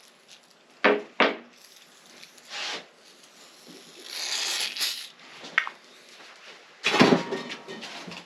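Two sharp knocks about a second in, then short hissing bursts of an aerosol cleaner sprayed onto the engine, and a loud clatter of metal tools or parts near the end.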